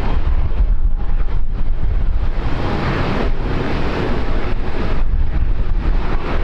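Heavy wind buffeting the microphone with a constant low rumble. Under it an aircraft's engine roar swells through the middle and eases off, with a faint steady whine.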